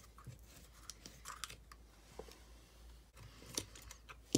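Scattered light clicks and taps of a Torx screwdriver and small grip screws being worked and handled on a Sig Sauer P320 AXG Pro's frame while its grip panels are removed, with a sharper click near the end.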